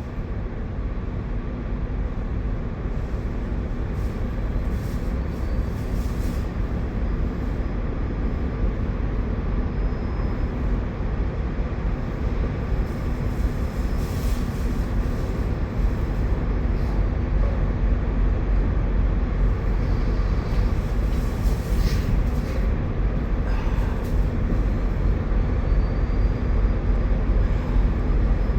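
Steady low engine drone with a deep even hum, slowly growing louder, with a few faint scrapes.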